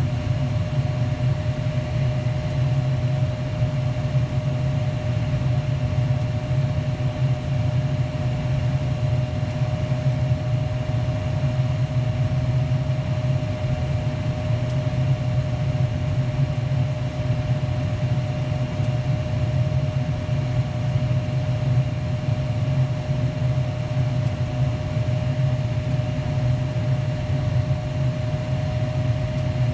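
Furnace blower motor running steadily, a constant hum with a thin steady whine above it. The blower cuts in and out on its own, a fault the owner puts down to a cracked solder joint on the furnace's control board.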